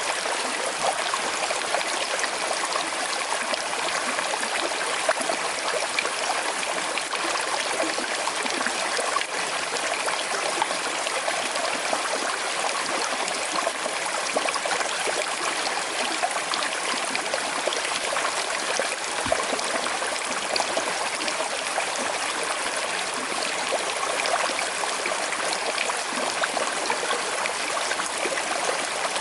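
A small river flowing steadily over stones, with a light trickling and babbling.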